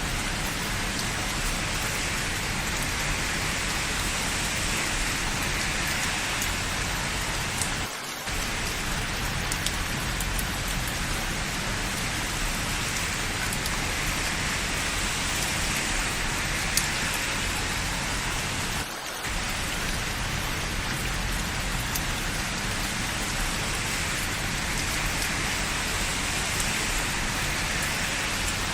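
Steady rain falling, a dense even hiss that dips briefly twice.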